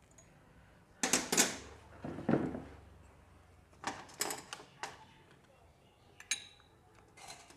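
Metal motorcycle clutch parts and hand tools clinking and clattering in several short bursts as the clutch is being reassembled.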